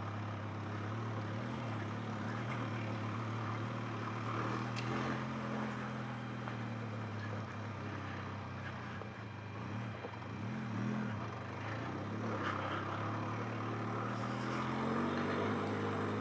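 Benelli TRK 502X motorcycle's parallel-twin engine running at low, fairly steady revs while riding slowly uphill, with a couple of brief rises and falls in revs about ten to eleven seconds in and again near the end.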